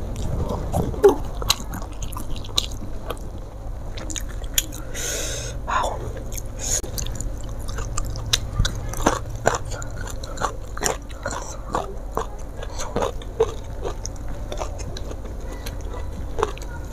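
Close-miked mouth sounds of a person eating fried fish and rice by hand: chewing with many small wet clicks and smacks, and a short hiss about five seconds in.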